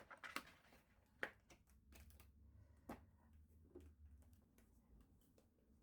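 Near silence with a few faint, isolated clicks and taps, as of a gift's packaging being handled.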